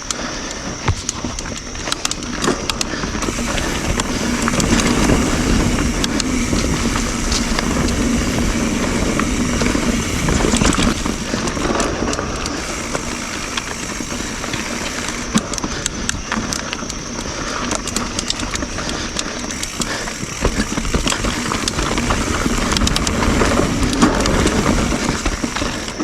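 YT Jeffsy mountain bike rolling fast over dirt singletrack: a continuous rush of tyre noise on the trail, with frequent sharp clicks and rattles from the bike as it rides over roots and rocks.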